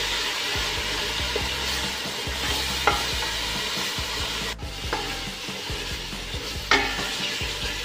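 Ground spice paste with lemongrass, cinnamon and bay leaves sizzling steadily in hot oil as it is stirred, being sautéed until fragrant. There are three sharp clicks of the utensil against the pan.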